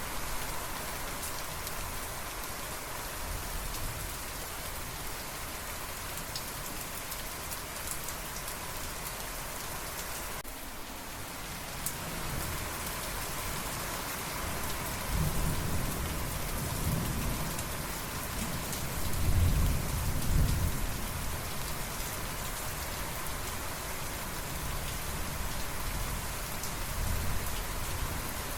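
Steady heavy rain hissing, with thunder rolling in low about halfway through and peaking a few seconds later before fading back under the rain.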